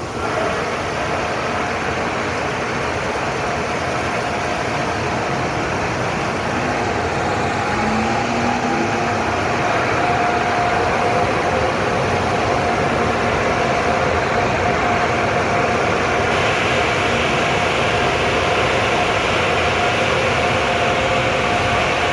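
Automatic car wash machinery running: a steady rushing noise with a steady hum, growing louder and hissier about two-thirds of the way through.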